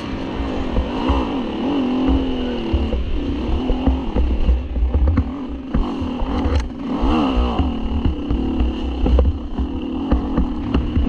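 Dirt bike engine revving up and down as it is ridden, its pitch rising and falling several times, over a heavy low rumble with scattered knocks.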